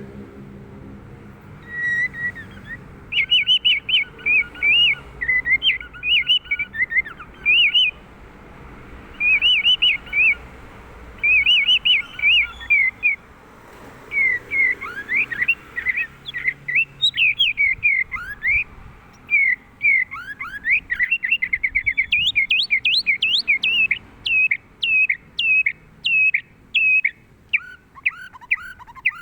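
White-rumped shama (murai batu) singing: phrases of quick high chirps and clear whistles, broken by short pauses. In the second half the song turns into fast runs of short sweeping notes.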